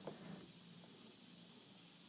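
Near silence: a faint steady hiss, with one brief soft knock right at the start.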